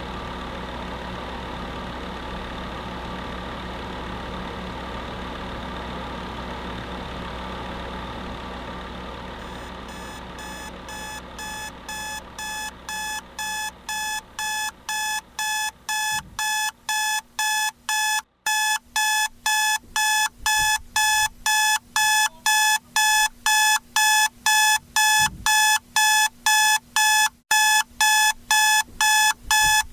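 Electric space heater running with a steady fan hum, fading out over the first half, while an electronic alarm clock starts beeping about twice a second, growing louder and then holding steady: the wake-up alarm that ends the timed nap.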